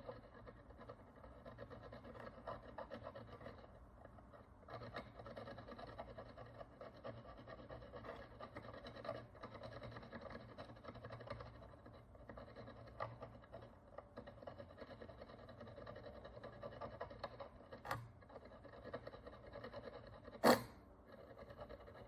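A hand tool scraping and scratching over the surface of a Roman bronze coin: a dense run of fine scratches with short lulls, and one sharp tap about twenty seconds in.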